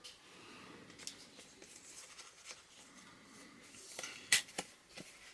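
Hands handling packaging and items from an unboxing: faint rustling of paper and card with a few light clicks and taps, the loudest a sharp tap a little over four seconds in.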